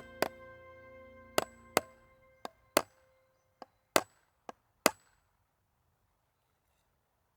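Background music fading out over the first two seconds, with about nine sharp, irregularly spaced knocks, like chopping or striking, that stop about five seconds in.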